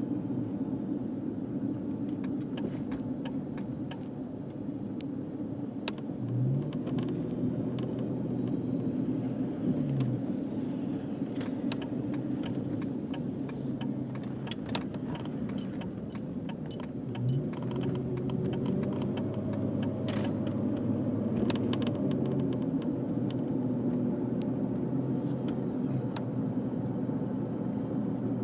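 Dodge Charger SXT's 3.5-litre V6 running through a Pypes Street Pro catback exhaust: a steady low hum whose pitch steps up briefly three times. Light clicks and rattles are scattered over it.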